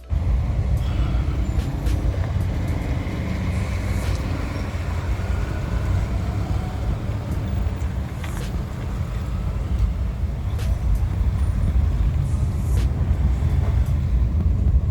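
Car driving on a road: a steady low rumble of engine and tyres, with a few faint ticks.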